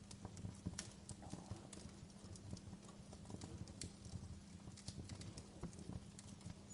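Burning logs crackling in a fireplace: irregular sharp pops and snaps, a few each second, over a low steady rumble of the fire.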